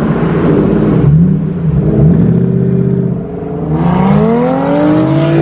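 Car engine accelerating hard through the gears: the pitch drops twice in the first two seconds as gears are shifted, then climbs steadily through the last two seconds.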